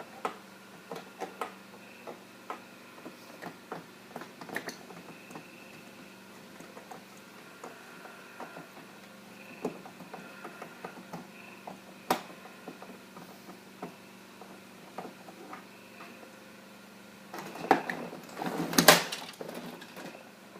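Scattered clicks and taps of a screwdriver and plastic parts as an old inkjet-style printer is taken apart by hand, with a louder clatter of knocks near the end.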